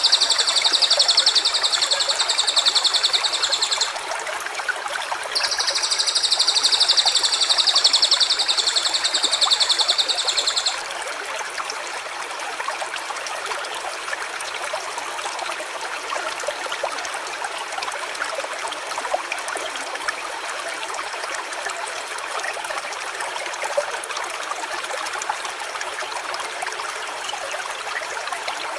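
A stream running steadily. Over it, in the first ten seconds, two long, high, buzzing trills, each about five seconds, with a short gap between them.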